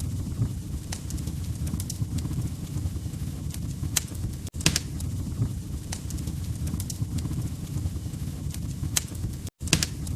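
Wood fire in a fireplace crackling: irregular sharp pops and snaps over a low steady rumble. The sound cuts out to silence for an instant twice, about five seconds apart.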